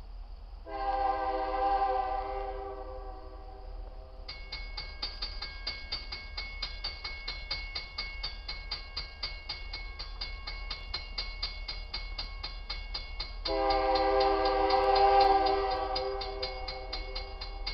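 Diesel locomotive air horn on a Union Pacific freight train, two long blasts of a several-note chord, one about a second in and one near the end. From about four seconds in, a bell rings rapidly and steadily, about three strikes a second, under the second blast.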